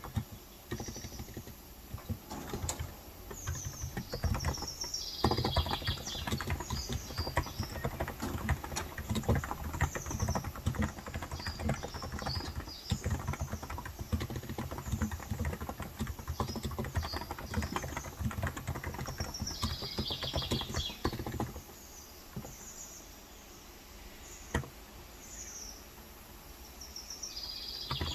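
Steady, fast typing on a Cox Endeavor tenkeyless keyboard with 35 g electrostatic capacitive switches, which stops about three-quarters of the way through, leaving one more keystroke later. Birds chirp repeatedly in the background.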